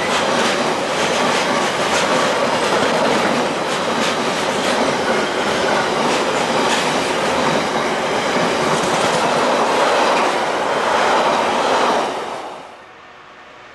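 A train passing close by, its wheels clicking over the rail joints under a steady rumble of running noise; the sound cuts off abruptly near the end.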